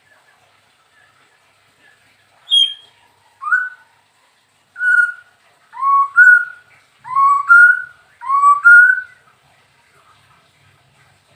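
White-rumped shama (murai batu) singing: a single high falling note, then a run of about six loud, fluty, rising whistled phrases that grow louder towards the end.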